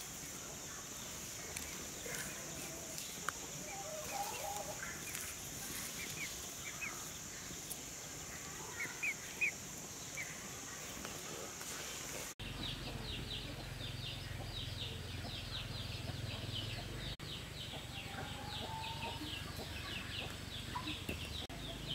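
Outdoor ambience with a steady high insect-like drone and scattered bird chirps. After an abrupt cut about halfway through, birds give a fast, continuous run of short high chirps over a low hum.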